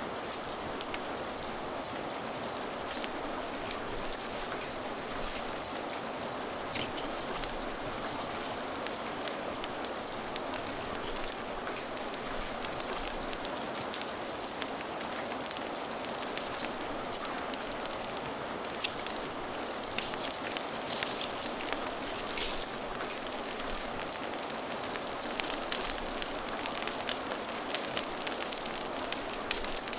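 Steady rain falling, with a wood fire crackling through it in many small, sharp pops and clicks.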